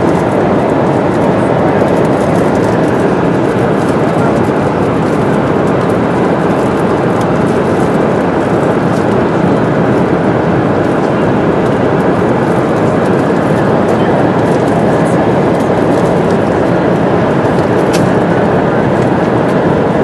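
Steady roar inside an airliner cabin in flight: jet engine and airflow noise, even in level throughout, with a few faint clicks.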